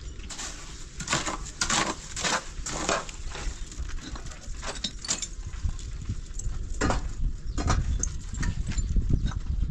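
A series of irregular knocks and clicks, thickest in the first few seconds, over a low rumble that grows louder in the second half.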